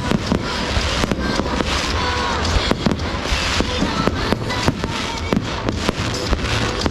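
Aerial fireworks exploding in a rapid, irregular run of sharp bangs and crackles, with music and voices underneath.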